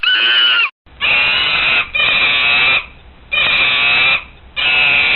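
Monkey giving five harsh calls in a row, each just under a second long with short pauses between.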